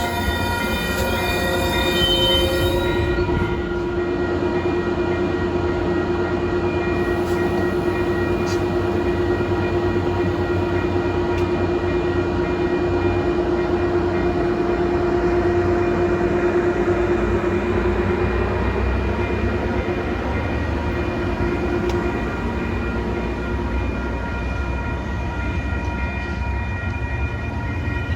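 Train passing close by: a loud, steady rumble with a held tone through most of it that fades out a few seconds before the end.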